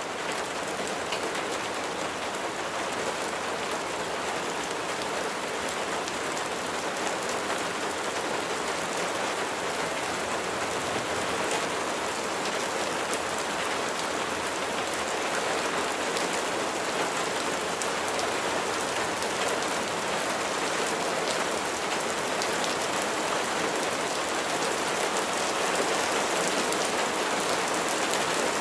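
Steady rain falling on a surface, a dense even patter with many individual drops ticking.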